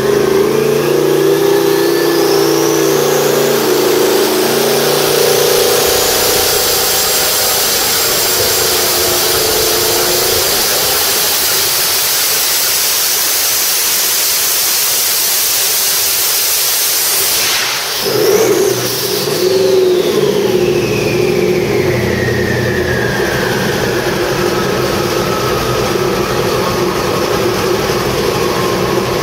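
Twin-turbo 427 small-block Chevy running hard, its turbo whine rising over the first few seconds and then holding high. About 18 s in the engine comes off power with a short whoosh, and the turbo whine falls away slowly as it spools down.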